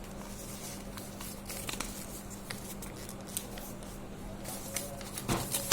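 A sheet of paper being handled and folded, with soft scattered rustles and crinkles and a louder rustle near the end, over a steady low electrical hum.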